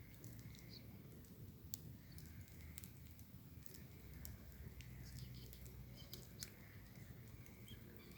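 Faint crackling of a wood bonfire, with irregular sharp pops and snaps over a low steady rumble.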